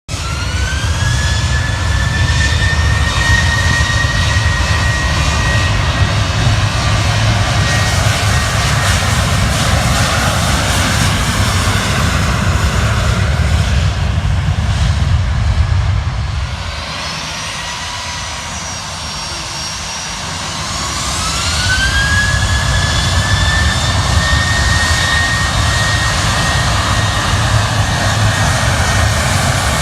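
Airliner jet engines running loud, a low rumble under a high whine that rises and then holds steady. The sound dips for a few seconds about two-thirds of the way through, then another whine rises and holds.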